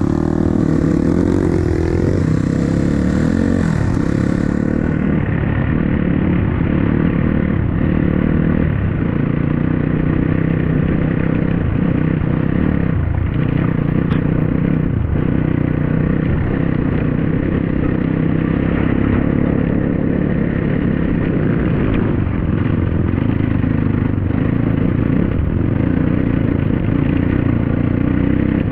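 A dirt bike engine running steadily while riding, with some clatter and knocks from the bike over rough ground.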